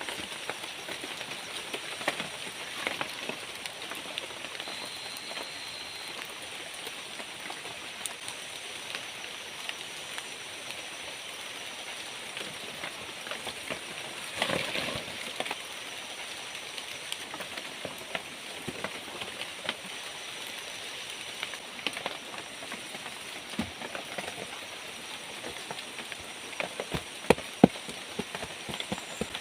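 Rain falling steadily, an even hiss with scattered louder drops ticking close by, and a few sharp taps near the end.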